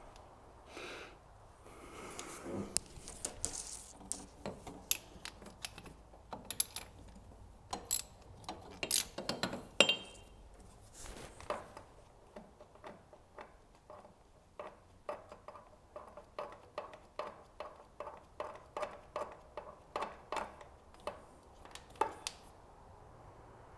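Socket ratchet and tools on an engine while a spark plug is unscrewed. Irregular metal clinks and knocks come first, then a steady run of ratchet clicks about two or three a second through the second half.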